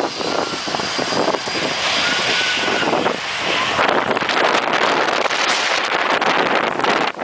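Jet airliner engines at takeoff power, with the jet blast buffeting the microphone as a loud, steady rush of noise. It cuts off abruptly near the end.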